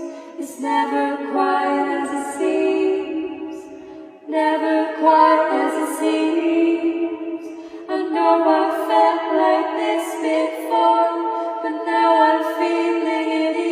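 Background music: unaccompanied vocal singing in long held notes, with a short break about four seconds in.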